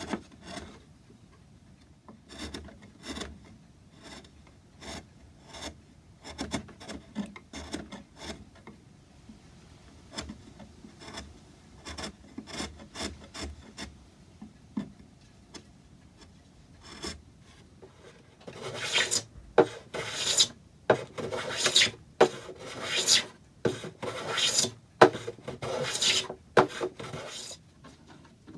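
Wood being worked by hand in repeated scraping strokes, like a rasp or file on the grain. The strokes are faint at first and become louder, about one a second, in the last ten seconds or so.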